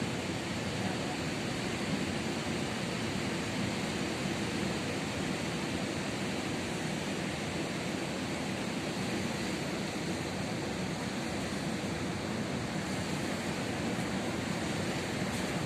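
Ocean surf: breaking waves heard as a steady, even wash with no distinct single crash.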